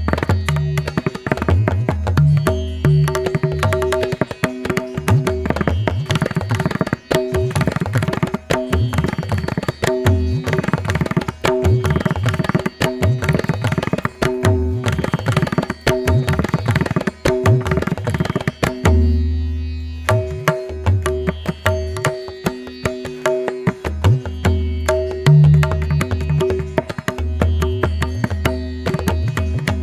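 Background music: rapid tabla drumming over a steady drone.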